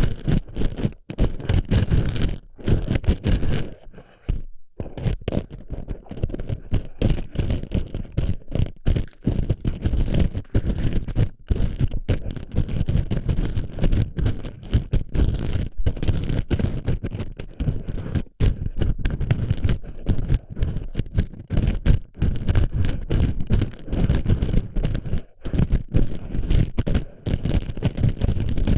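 Plastic BB pellets rolled and pressed against an ASMR microphone's ear, a dense, irregular clicking and scraping, with a brief lull about four seconds in.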